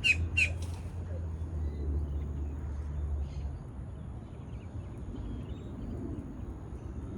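A bird squawking several times in quick succession right at the start, followed by faint scattered chirps over outdoor background noise. A low rumble fades out about three seconds in.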